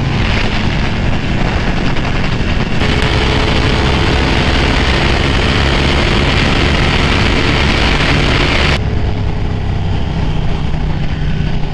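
Sport motorcycle engine running, heard close from the rider's camera, steady at first, then a louder, hissier stretch from about three to nine seconds in before it settles back to a steadier engine note.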